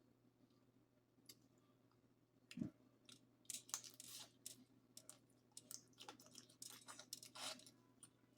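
Close-miked eating sounds: a soft low bump about two and a half seconds in, then a quick run of small wet clicks and crackles of food being chewed.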